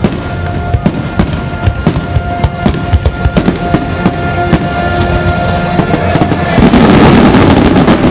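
Aerial fireworks bursting in quick succession over a music soundtrack with long held notes. About six and a half seconds in, a dense spell of rapid crackling takes over as the loudest part.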